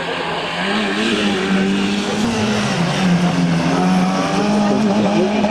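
Slalom car's engine working hard through the course, its revs rising and falling with the throttle and gear changes and dipping briefly around the middle.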